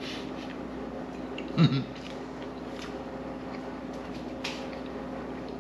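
A man biting into and chewing a crispy pan-fried rice cake, with faint scattered crunches and one short, louder low 'mm' about one and a half seconds in, over a steady low hum.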